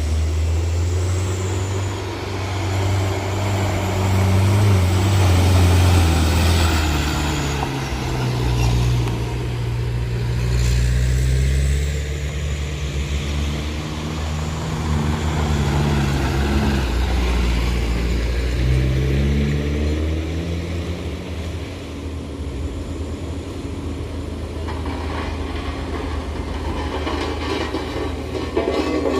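Heavy truck's diesel engine labouring under load on a steep uphill climb, its note rising and falling as it revs.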